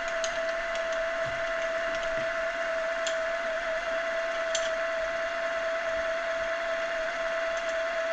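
Milling machine spindle running steadily with an edge finder in the chuck, giving a constant whine, with a few faint ticks as the table is wound across.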